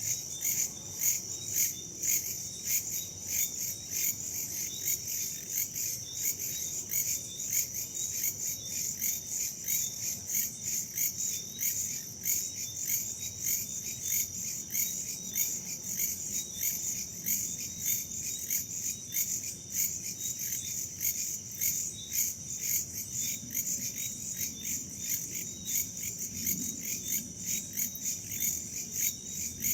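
Crickets and other insects chirping in a steady, dense chorus, a high-pitched trill pulsing a few times a second without a break.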